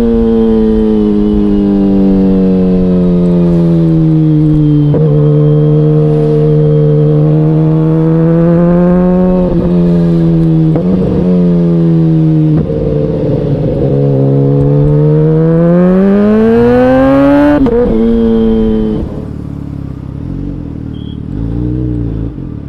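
KTM Duke 125's single-cylinder four-stroke engine running while riding. Its note climbs and falls several times, with brief breaks where the pitch drops, as at gear changes. Near the end the engine note falls away and it goes much quieter.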